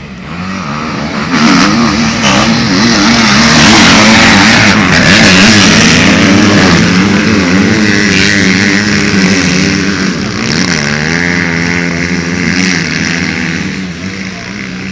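Several MX2 motocross bikes racing past, their engines revving up and down as the riders work the throttle. The noise swells about a second and a half in and slowly fades over the last few seconds.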